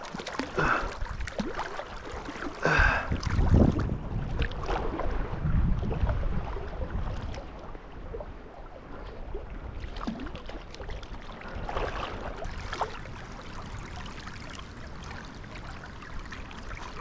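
River current running steadily, with wind gusting on the microphone as a low rumble from about three to six seconds in.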